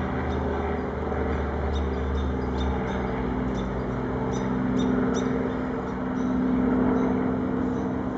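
Helicopter circling overhead: a steady droning hum of rotor and engine, its deepest rumble easing about three seconds in.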